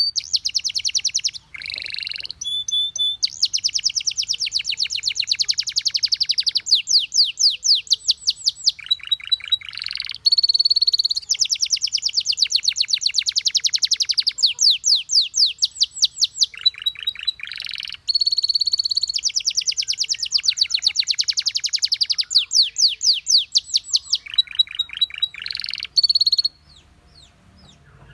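Canary singing a long song made of rapid trills: runs of fast repeated notes, each held a second or more before switching to a different trill, with brief pauses between. The song stops near the end.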